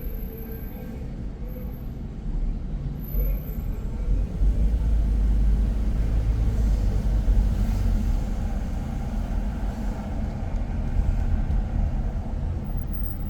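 Motor vehicle traffic: a steady low rumble of engine and road noise that grows louder about four seconds in.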